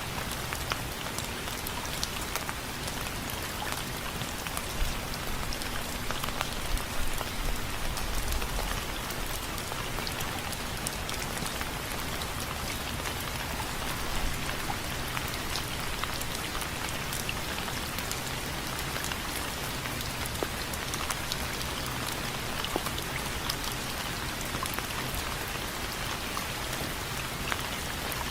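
Steady rain falling on window frames, a constant hiss with many individual drops ticking sharply on the frame.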